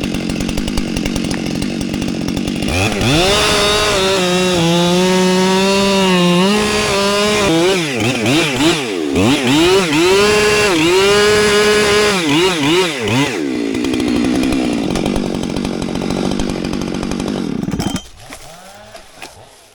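Two-stroke chainsaw idling, then revved to full throttle about three seconds in and cutting wood, its engine note dipping and recovering again and again for about ten seconds. It drops back to idle, then is shut off about two seconds before the end.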